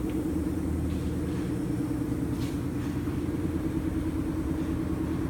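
Steady low machine drone, engine- or motor-like, with a faint click about two and a half seconds in.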